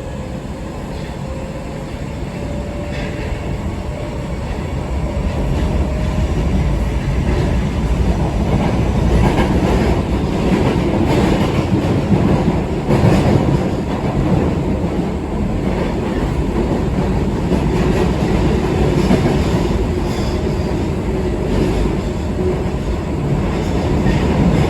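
Osaka Metro 22 series subway train running, its sound growing louder over the first several seconds and then holding steady. A faint whine runs under the wheel noise near the start, and the wheels click over rail joints.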